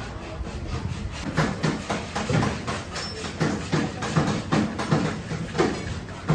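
Rhythmic strokes of hand tool work on a car's sheet-metal body, about two to three a second, becoming regular about a second in.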